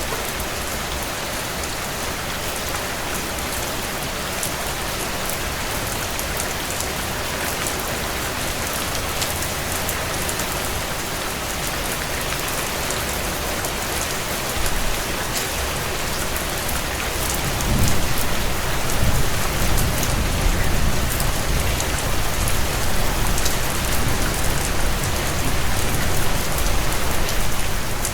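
Steady heavy rain on window glass, with scattered sharp crackles from a wood fire in a stone fireplace. About two-thirds of the way in, a low rumble swells up and the whole sound grows louder.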